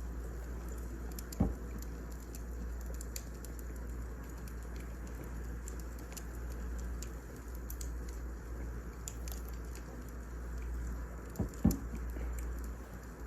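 Wood fire burning with a steady low rumble and scattered small, sharp crackles. There is a louder low thump about a second and a half in, and a double thump near the end.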